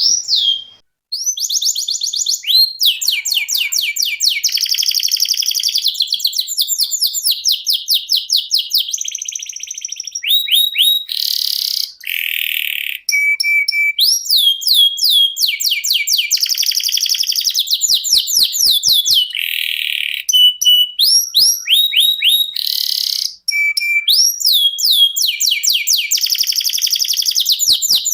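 Domestic canary singing a long, unbroken song: rapid trills of repeated down-slurred notes, buzzy rolling phrases and short whistles, changing phrase every second or two. Brief pauses about a second in and again near 13 and 23 seconds.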